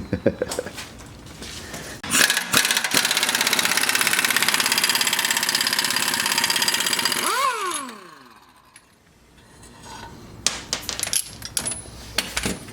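Air impact wrench hammering for about five seconds to break loose and spin off a shock bolt held with red Loctite, then winding down with a falling whine. A few light metallic clinks of hardware follow near the end.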